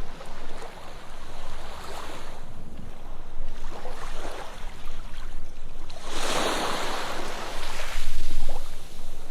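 Ocean waves breaking and washing up on a sandy beach in repeated swells, with the biggest wave rushing in about six seconds in.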